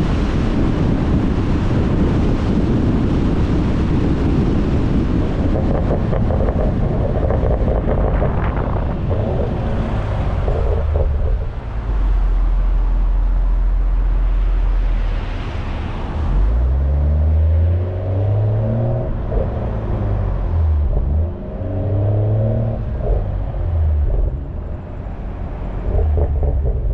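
BMW M340i's turbocharged B58 inline-six exhaust with heavy wind noise on the microphone. For the first ten seconds or so the rush of wind and road dominates. Then a low steady exhaust drone comes in, followed by three rising pulls as the car accelerates.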